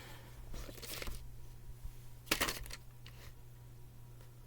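Plastic VHS and DVD cases being handled: faint rustling and scraping, with a louder scrape about two and a half seconds in, over a steady low electrical hum.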